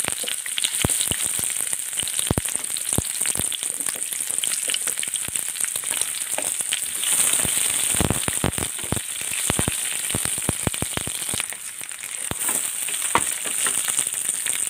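Cut red onion with chana dal and urad dal frying in oil in a steel pan: a steady sizzle with frequent sharp crackles. The crackles grow busier about halfway through, while a wooden spatula stirs the pan.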